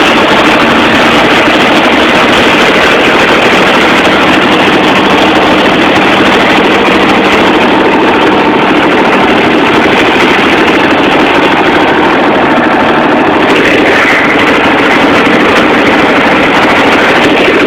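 A vehicle engine running steadily, close and loud, with a brief rising tone about 13 seconds in and again near the end.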